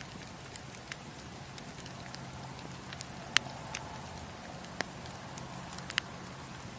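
Campfire crackling: a steady hiss of burning wood with scattered sharp pops at irregular moments, the loudest about halfway through and a quick pair near the end.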